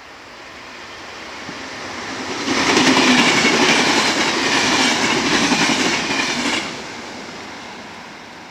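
Regional passenger train passing close by at about 120 km/h. The noise of the wheels on the rails builds up, jumps suddenly about two and a half seconds in, and stays loud for about four seconds while the coaches go by. It cuts off sharply and then fades away.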